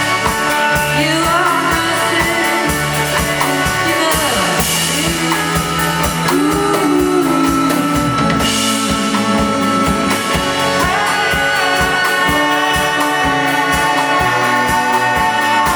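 Live rock band playing with drum kit and sung vocals, the voice gliding over sustained guitar and keyboard-like tones.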